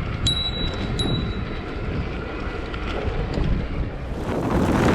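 Wind buffeting the microphone of a moving bicycle rider, a steady low rumble that grows louder near the end. Two short high-pitched chirps sound about a quarter second and a second in.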